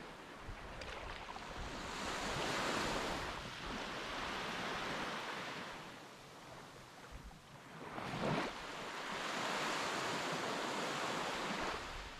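Sea waves breaking and washing up the shore, the noise swelling and falling in long surges, loudest a little after eight seconds in, with some wind on the microphone.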